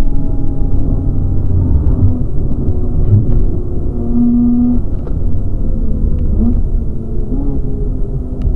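Mazda RX-8's twin-rotor Wankel rotary engine running at track speed, heard from inside the cabin over a steady low rumble of road and tyre noise. The sound eases briefly about two seconds in and again near the end.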